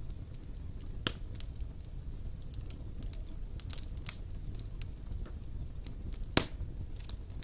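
Wood fire burning in a fireplace: a steady low rumble of flames with scattered small crackles and sharp pops, one about a second in and a louder one about six seconds in.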